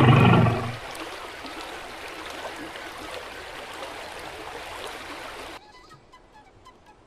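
An animal's loud, pitched call ends within the first second. It gives way to a steady rush of flowing water, which cuts off abruptly near the end, leaving faint chirps.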